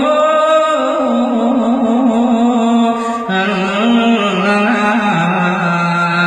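A monk's male voice singing a slow, chant-like melody through a microphone, holding long notes with a wavering vibrato; about three seconds in it steps down to a lower held note.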